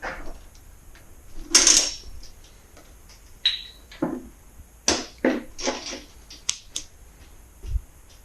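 Handling noises in a small room: scattered knocks, clatters and scrapes of tools and parts being moved, the loudest a rough scrape about a second and a half in.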